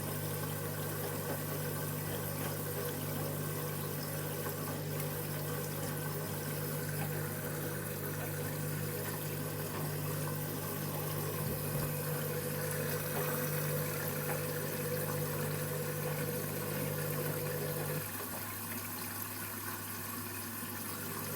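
Candy Grand'O Vita washing machine filling with water at the start of its cycle while its KG detector weighs the load, a steady rush of water under a machine hum. Part of the hum stops about eighteen seconds in.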